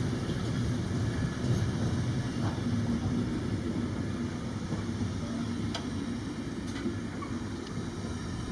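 Train running along the line, a steady low rumble with a few faint clicks from the wheels.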